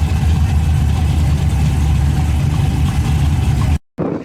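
Street-race car or truck engine idling loudly and steadily, cut off abruptly near the end.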